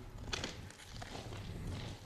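Footsteps of people walking through a railroad tunnel, faint, with scattered soft steps.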